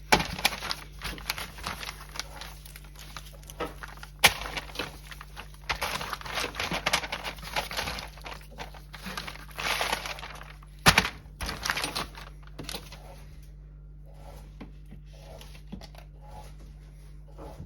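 Hands rubbing butter over a raw whole chicken: irregular rustling and crinkling with scattered sharp clicks, two of them louder, about four and eleven seconds in. The handling thins out in the last few seconds.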